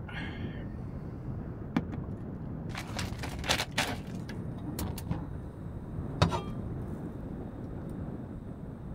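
A few sharp clicks and knocks of objects being handled, the loudest about six seconds in, over a steady low rumble.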